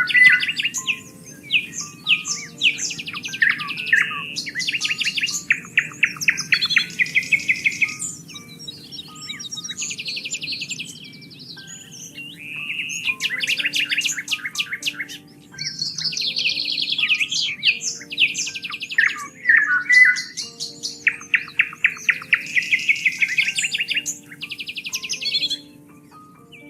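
Several songbirds singing and calling over one another, with fast repeated trills and short whistled phrases coming in quick bouts, over a soft, steady low background.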